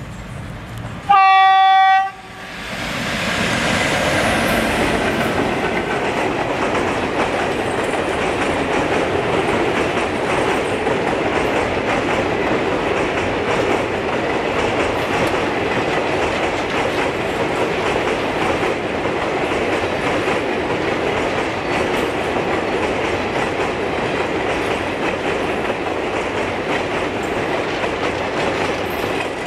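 Diesel locomotive horn sounding one blast of about a second, followed by a train passing at speed with a loud, steady rush of wheel and rail noise and some clickety-clack that lasts the rest of the time.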